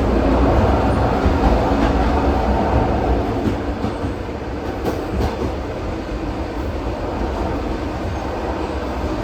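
ED4M electric multiple unit running at speed between stations: a steady rumble of wheels on rail, heard inside the carriage.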